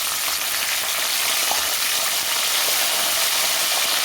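Chicken pieces frying in hot oil: a steady, dense sizzle.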